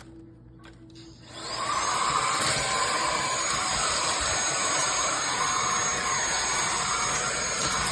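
Cordless stick vacuum switching on about a second and a half in, its motor spinning up with a short rising whine, then running steadily: a loud rush of suction with a thin high whine over it.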